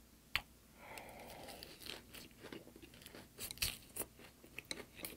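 A person chewing a mouthful of lettuce wrap (ssam) with raw garlic and green chili, close to a studio microphone: a sharp bite about a third of a second in, then a run of crunching chews with irregular clicks and smacks.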